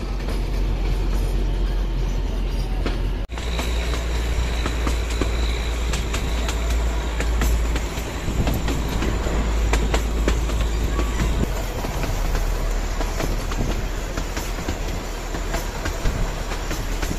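Narrow gauge passenger train running, heard from the open doorway of a coach: a steady rumble with the rapid clatter of wheels over the rails. The sound drops out for an instant about three seconds in.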